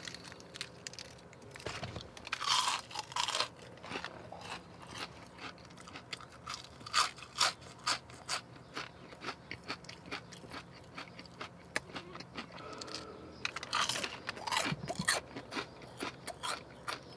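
Close-up chewing of a fried onion ring dipped in sauce: many short crunches and wet mouth sounds, with louder bursts of crunching about two seconds in and again near the end.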